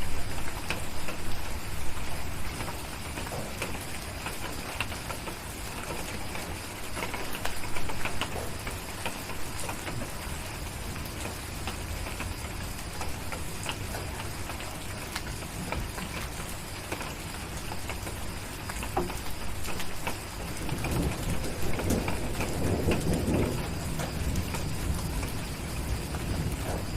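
Steady rain with scattered sharp ticks through it. A low rumble of thunder swells up about three quarters of the way through and holds for a few seconds.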